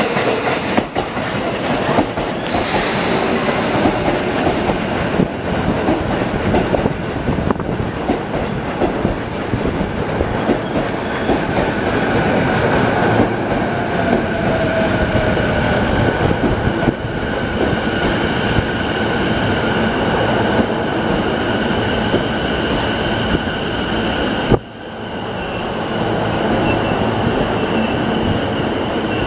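Sotetsu 12000 series electric train pulling into the platform and running past at slowing speed as it brakes: wheels rumbling and clattering over the rails. A steady high-pitched whine sets in about twelve seconds in. The sound cuts out for a moment near the end, then resumes.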